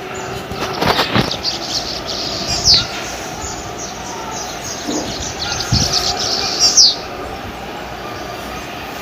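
Two short, high falling chirps about four seconds apart, the loudest sounds here, over a steady background hiss with scattered clicks: a bird calling.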